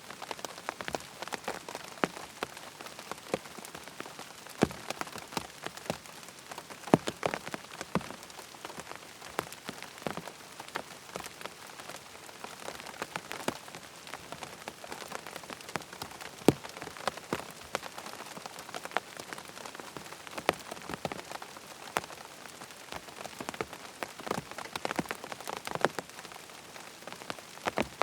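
Rain falling on a tent: a steady wash of rain with many separate, sharper drop strikes scattered irregularly throughout.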